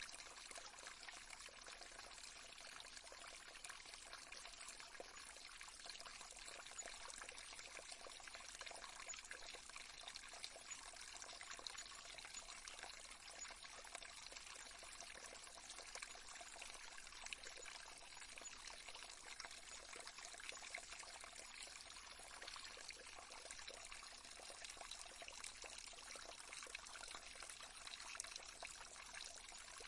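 Faint, steady trickling of a small stream, a continuous water sound without pause.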